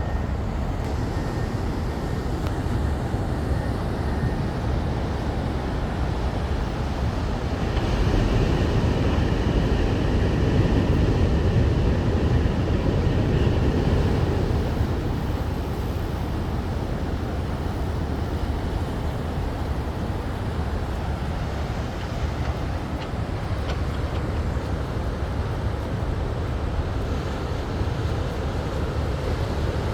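Steady low rumble of an offshore sand dredge working, mixed with surf and wind, swelling a little for several seconds in the middle.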